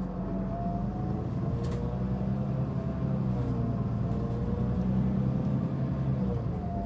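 Mitsubishi Fuso Aerostar city bus under way: its diesel engine drones steadily while a high whine above it slides down and back up in pitch. This bus was known for a considerable abnormal running noise.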